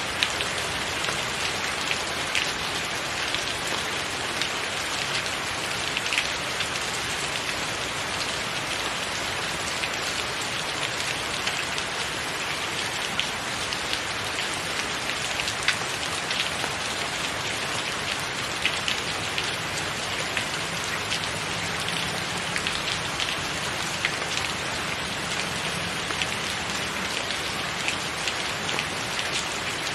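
Steady rain falling on a tiled roof: an even hiss with many individual drops ticking sharply through it.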